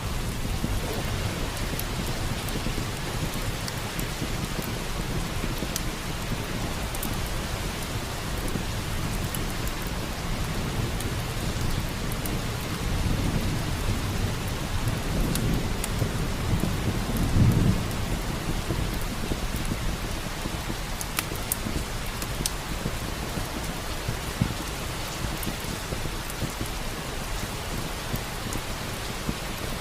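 Steady rain falling, with a low thunder rumble that builds a little before halfway and peaks a few seconds later before fading. Sharp crackles from a wood fire pop here and there over the rain.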